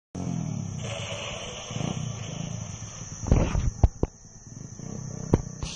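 Thumpstar 110cc pit bike's small single-cylinder four-stroke engine running, with several sharp knocks in the second half.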